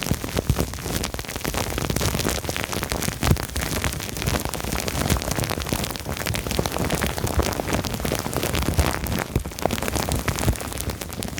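Dense, continuous crackling and crinkling close to the microphone, from plastic film and foam being handled and squeezed.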